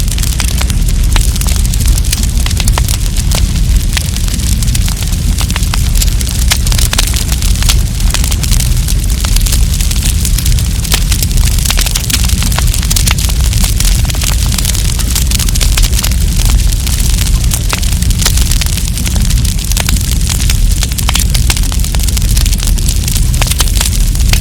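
Wood campfire burning, with dense, irregular crackles and pops over a steady low rumble.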